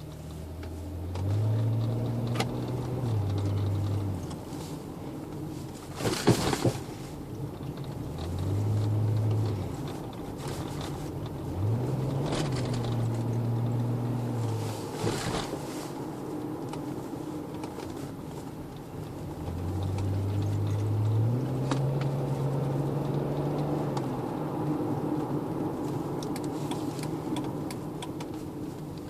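Chrysler 300C's 3.5-litre V6 with Magnaflow mufflers, a Y-pipe and the resonator cut out, run hard through several bursts of acceleration, its note climbing and dropping back at each shift and easing off between runs. Two sharp loud knocks break in about 6 and 15 seconds in.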